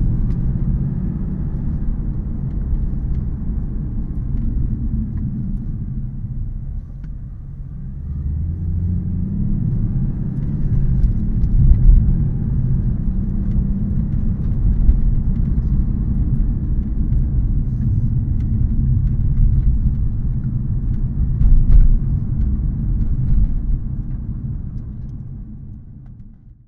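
Mercedes-Benz C63 AMG 507 Edition's 6.2-litre V8 heard from inside the cabin while driving: a low engine rumble with road noise that eases off briefly, then rises again as the car accelerates. It swells once more near the end before fading out.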